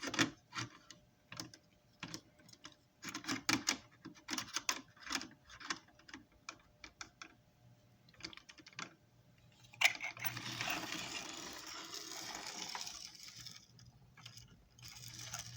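Marx Mo-Pac toy switcher locomotive running on track: irregular light clicking of its wheels and mechanism. About ten seconds in, a steady whirring from its motor takes over for a few seconds, with a faint low hum underneath.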